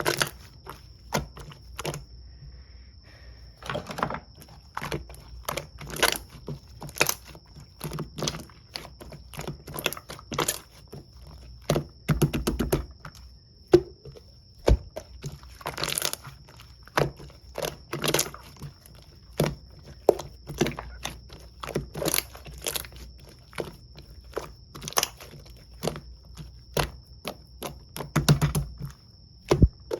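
Jelly slime being squeezed and pressed by hand, making an irregular run of pops and clicks, with a few louder clusters of crackling.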